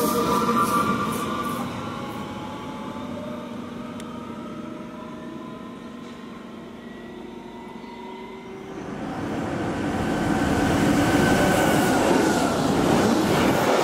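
An electric multiple unit pulling away, its motor whine and running noise fading. From about nine seconds in, an electric locomotive hauling a freight train passes close, and the wheel and wagon rumble grows loud.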